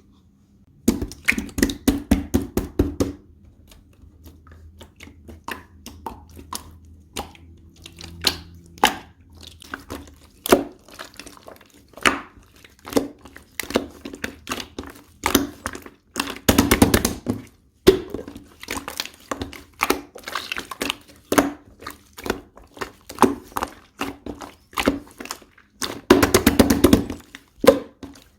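Slime being squeezed, pressed and poked by hand, giving sharp clicks and crackling pops. Dense runs of crackling come about a second in, about halfway through and near the end.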